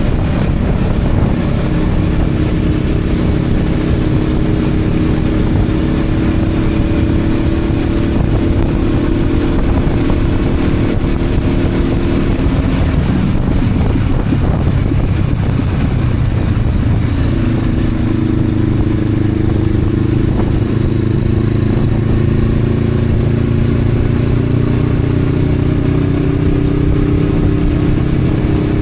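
Honda CB500X parallel-twin engine running under way, over steady wind and road rumble. Its note fades for a few seconds about halfway through, then comes back steady and slowly rises near the end.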